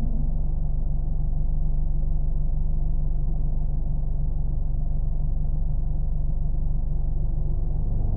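Car engine running steadily: a low, even rumbling drone with a deep hum that holds the same pitch throughout.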